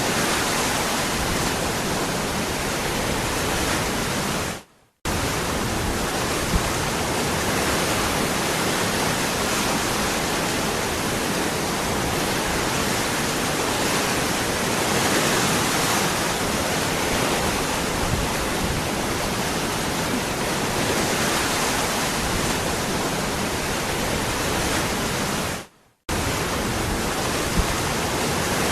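Waterfall, a steady dense rush of falling water. Twice, about five seconds in and near the end, it fades out almost to silence for a moment and then comes straight back.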